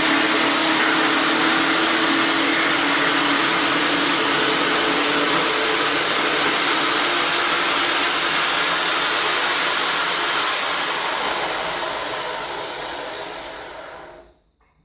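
Electric drill in a drill stand running at steady speed while boring a hole through timber, then switched off about ten seconds in, its whine falling as the motor runs down to a stop.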